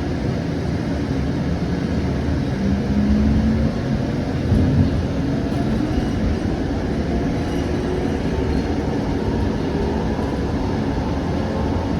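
Siemens S700 light-rail car running between stations, heard from on board: a steady low rumble of wheels on track, with a faint motor whine rising slightly near the end.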